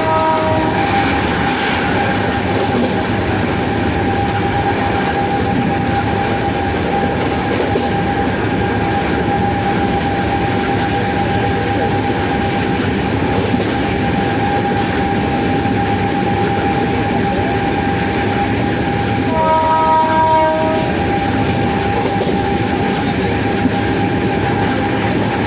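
WAP-7 electric locomotive running, its traction motors giving a steady high whine over a dense rumble of the train in motion. A train horn sounds twice: one blast ends just under a second in, and another lasts about a second and a half near the 20-second mark.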